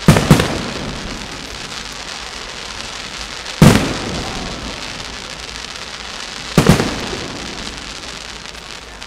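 Fireworks display: sharp shell bursts, two close together at the start, another about three and a half seconds in and one more about six and a half seconds in. Each trails off over a steady hissing background.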